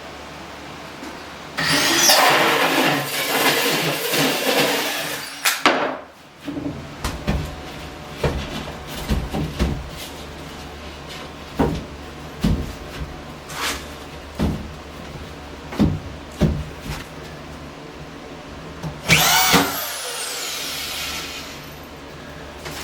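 Construction work with tools in a room: a few seconds of loud rasping cutting noise, then a run of scattered knocks and clicks, and a power drill spinning up and winding down near the end.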